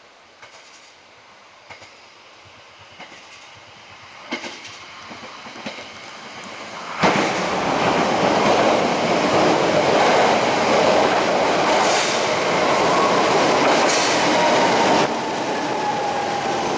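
E129 series electric train approaching through a tunnel: at first faint wheel clicks over the rail joints, then, about seven seconds in, a sudden loud rumble of the train running inside the tunnel. In the second half a whine falls slowly in pitch as it slows into the station.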